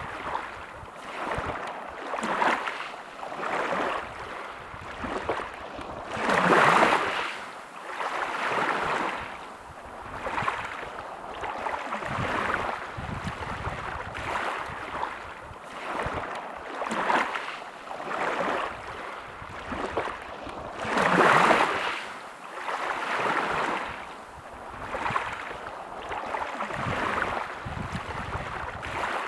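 Sea waves washing onto a beach, a hiss that swells and falls back every couple of seconds, with two bigger breakers about a quarter and three quarters of the way through.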